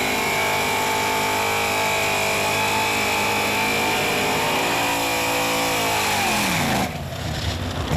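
Small-block Ford V8 in a stick-shift Mustang, through mufflers, pulling hard at full throttle down a drag strip, its pitch staying high with small dips as it is shifted. About six and a half seconds in the engine note falls away sharply as the throttle closes at the end of the run.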